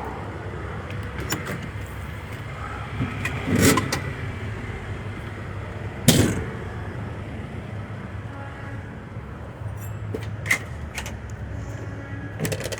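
Steady low rumble of motor vehicles, with a few sharp knocks and clatters about four, six and ten seconds in, as of gear being handled.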